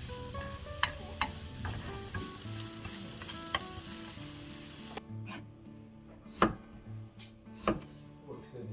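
Pork sizzling hard as it cooks. The sizzle cuts off suddenly a little over halfway through, and a few sharp knocks follow.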